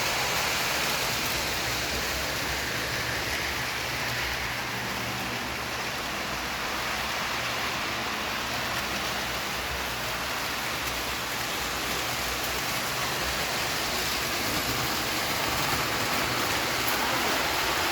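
Lionel O scale model train running on its track: a steady whirring rumble of metal wheels on the rails and the locomotive's electric motor, easing off slightly and then swelling again.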